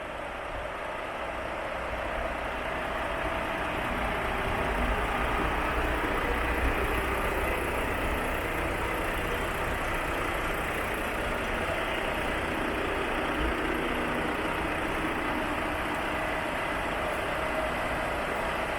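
Volvo FH 460's 13-litre straight-six diesel engine idling steadily, growing louder over the first few seconds and then holding level.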